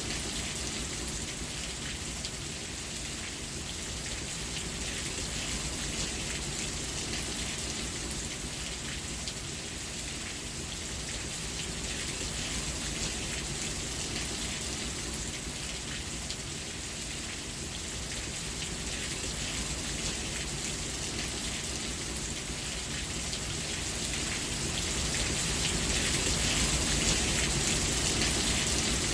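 Steady rain falling, a dense patter of drops over an even hiss, swelling a little louder near the end.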